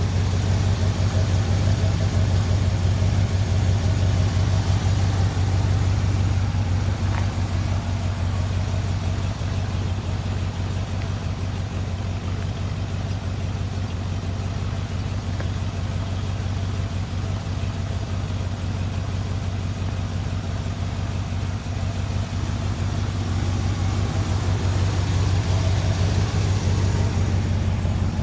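1969 Chevrolet C30 one-ton truck's engine running steadily with a low, even hum, a little quieter through the middle and picking up again near the end.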